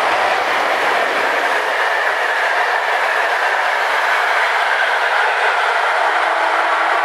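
Passenger train hauled by an ET22 electric locomotive passing close by: a loud, steady rush of wheels rolling on the rails, with a clickety-clack of the rail joints. A faint steady hum comes in near the end.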